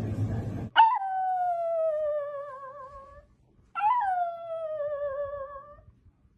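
A cat yowling: two long, drawn-out calls of about two and a half seconds each, separated by a short pause. Each starts high and slides down with a wavering pitch. They follow a low rumbling noise that cuts off just under a second in.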